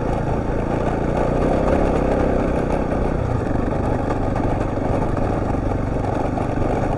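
Husqvarna TR650's single-cylinder four-stroke engine running steadily under a rush of riding noise as the motorcycle rides a corrugated dirt track; the engine note shifts about three seconds in.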